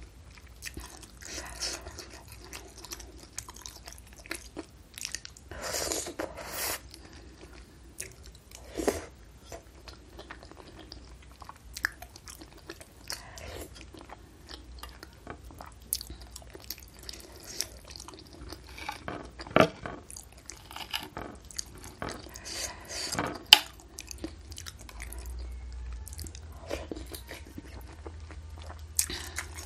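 Close-miked chewing and mouth sounds of someone eating meatball soup with noodles, with irregular sharp clicks and smacks, among them a metal spoon dipping into the ceramic bowl.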